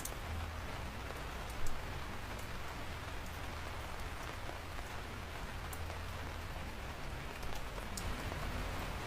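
Steady rain falling, with scattered sharp drips ticking on a surface, and one brief louder hit about one and a half seconds in.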